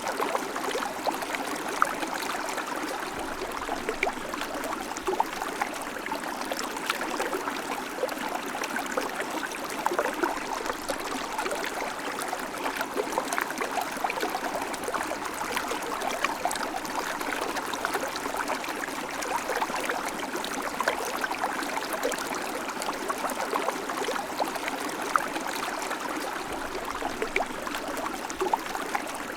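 River water flowing and burbling steadily, with small splashes and trickles throughout.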